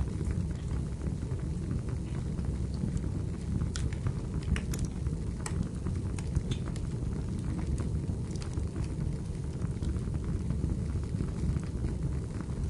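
Wood fire burning in a fireplace: a steady low rumble with scattered sharp crackles and pops of the burning firewood.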